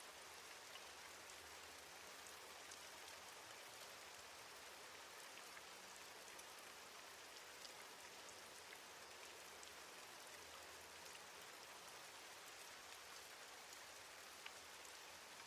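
Faint steady rainfall, with scattered individual drops ticking through it.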